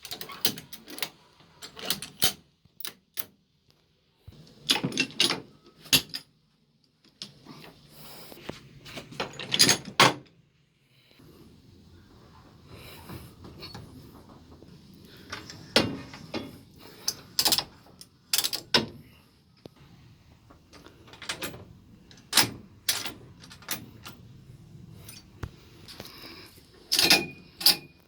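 Irregular clicks, knocks and clatters of metal fittings in a steam locomotive cab, coming in short clusters with quiet gaps between them.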